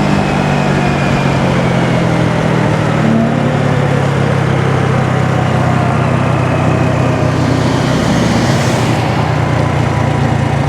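Honda Navi's small single-cylinder four-stroke engine running at a steady cruising speed while riding, over road and wind noise. A brief hissing swell comes about eight seconds in.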